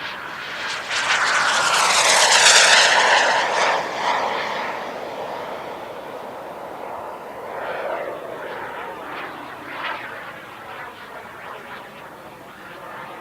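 JetCat P200 model jet turbine of a radio-controlled Me-163 flying past: a loud whine and rush that swells and drops in pitch as the model passes, about two to three seconds in. It then fades, with a second, fainter pass around eight seconds.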